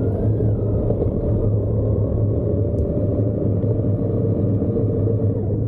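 Motorcycle engine running at a steady speed under way, a loud, even low rumble that cuts off abruptly at the end.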